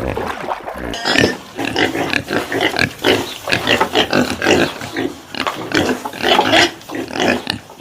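Pig grunting in a rapid series of short calls, starting about a second in.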